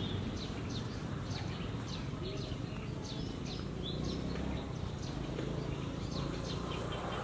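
Small birds chirping repeatedly, about two or three short, high, downward-sweeping chirps a second, over a steady low hum of outdoor background noise.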